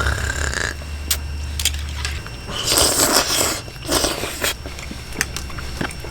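Eating at a table: light clicks of spoons and chopsticks against bowls, with two short noisy slurps of noodles in the middle.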